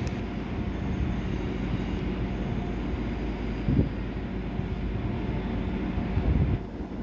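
Two-car regional passenger train approaching from a distance: a steady low rumble, with two brief louder low bumps about four and six seconds in.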